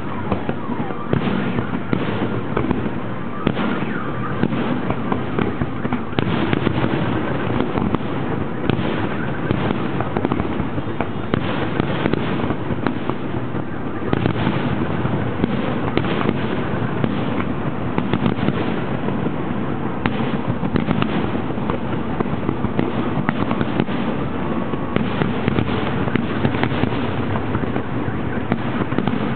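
Fireworks display going off in a dense, unbroken run of bangs and pops, with no pause.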